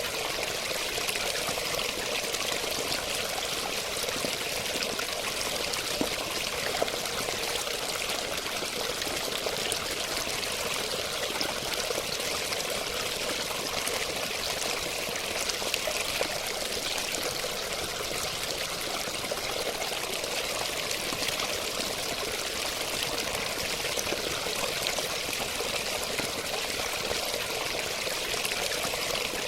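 Steady running water, splashing and trickling in a continuous, unchanging flow.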